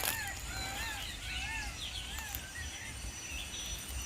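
A bird calling in the forest: a quick run of short whistled notes that each rise and fall, over about the first two and a half seconds. A thin steady high tone sounds underneath.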